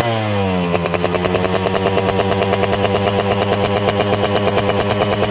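Yamaha RX-King's two-stroke single-cylinder engine running through its original stock exhaust. The revs fall off over the first second, then settle into a steady idle with an even pulsing beat.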